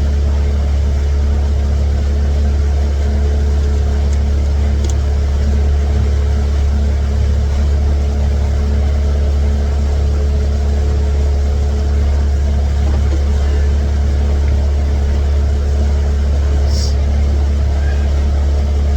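Small fishing boat's engine running steadily under way at cruising speed, a constant low drone with no change in pitch.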